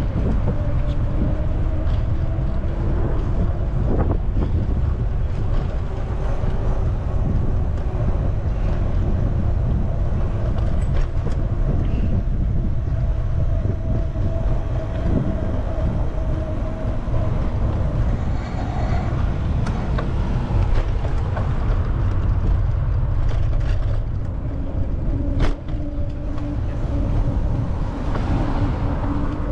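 Wind and motion noise on the microphone of a moving bicycle: a steady low rumble with a faint hum running underneath, and one sharp click about 25 seconds in.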